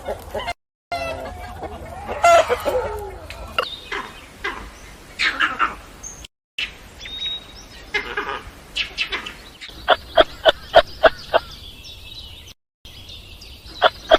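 Domestic chickens clucking and calling, in short clips joined by abrupt cuts. From about ten seconds in comes a rapid series of sharp clucks, about five a second.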